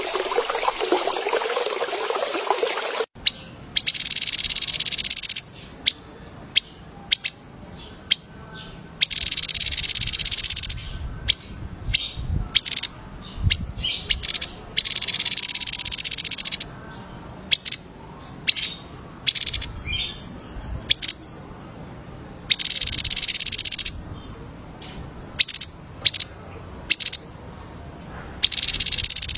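Songbird singing loud, high, buzzy trills of about one and a half to two seconds each, five times, with short sharp chirps between them over a faint steady high whine. The first three seconds are a rushing hiss that cuts off abruptly.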